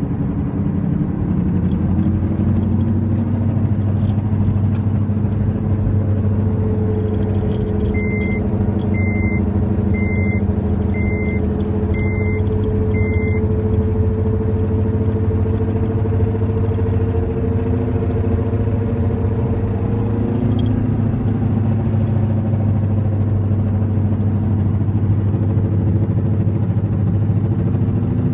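2005 Acura TL on the move with a steady low drone from the passenger-side wheel, a fainter higher tone in it rising slightly over the middle stretch. Around the middle come six short high beeps, about one a second.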